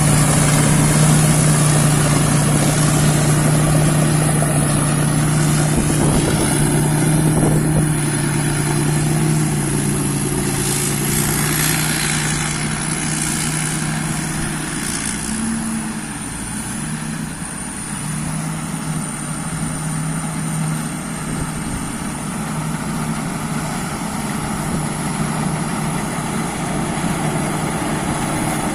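Rice combine harvester running steadily: an engine hum with a wide mechanical noise and a thin high whine over it. It grows a little quieter about a third of the way in.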